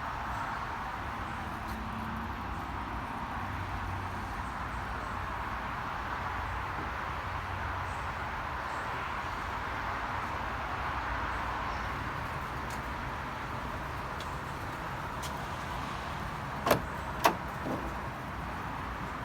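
Steady vehicle noise with a low rumble, broken near the end by two sharp clicks and a softer third one.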